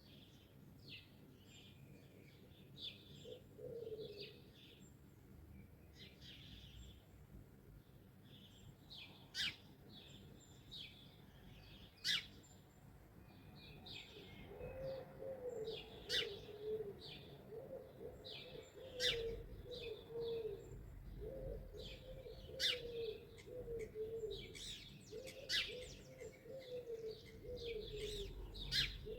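Several wild birds chirping and twittering in high, quick notes, with a few sharp call notes standing out. From about halfway a low cooing joins in and repeats in three long runs.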